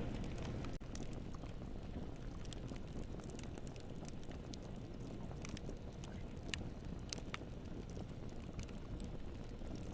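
Wood fire burning in a fireplace: a steady low roar with scattered, irregular sharp crackles and pops.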